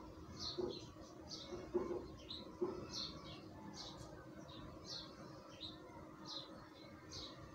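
Small birds chirping over and over in the background, short falling high chirps about twice a second. Three light knocks in the first three seconds come from the metal safety pin being worked into the fan's downrod clamp.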